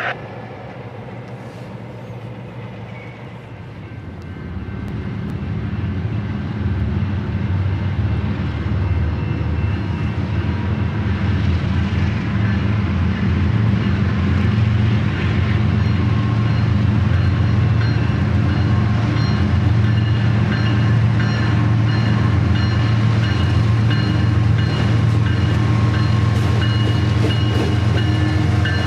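Diesel freight locomotives running by, their engines' steady low drone rising about four seconds in and then holding.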